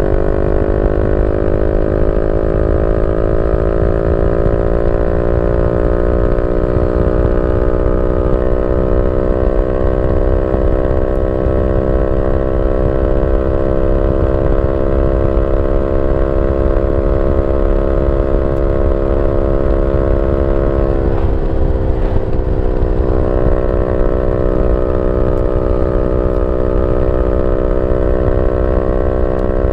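Yamaha Y15ZR's 150cc single-cylinder four-stroke engine running steadily through a YYPANG SD3 aftermarket exhaust. Its pitch rises slightly over the first few seconds and then holds, dipping a little about two-thirds of the way through.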